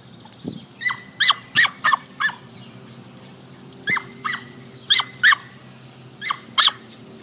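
Small dog yipping: short, sharp, high-pitched yaps, each dropping in pitch, coming in a run of about five and then in pairs.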